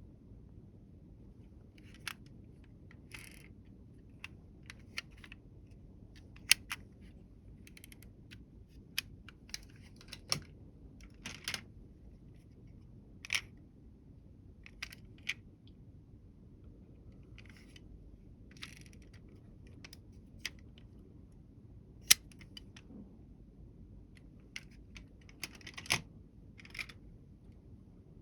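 Scattered sharp clicks, clacks and short scrapes of small toy vehicles being handled and set down on a hard surface. The two loudest clicks come about six seconds in and about two-thirds of the way through. A low room hum runs underneath.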